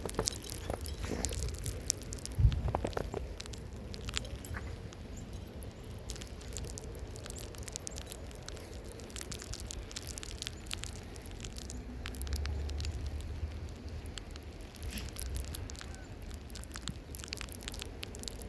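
Wind rumbling on the microphone in a heavy snowstorm, with many small crackling ticks throughout and a single thump about two and a half seconds in.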